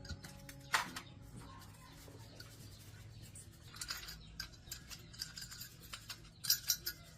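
Handling and tool noises from repair work on small appliance parts: a sharp click about a second in, then irregular bursts of light scraping and clicking, over a faint steady hum.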